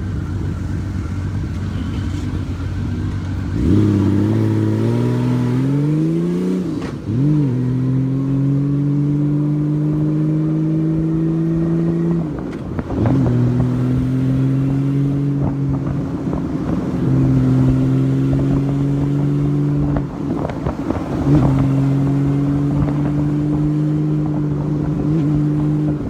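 Honda Valkyrie motorcycle's flat-six engine running steadily, then pulling away about four seconds in with its pitch rising and a gear change. After that it settles into a steady cruise, broken three or four times by a brief drop in revs.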